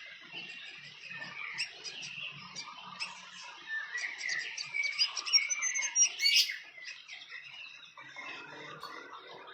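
Fantail birds chirping: a dense run of quick, high chirps and short twittering notes that grows busier and louder in the middle.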